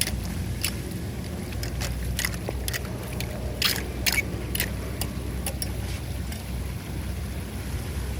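Floodwater rushing into a street drain with a steady low rumble, and scattered short sharp clicks over it, most of them in the middle of the stretch.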